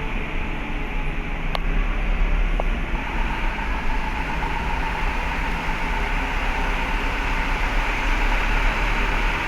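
Steady low rumble and hiss of engines and machinery inside a ship's vehicle deck, with two faint clicks early on and a thin steady whine joining about three seconds in.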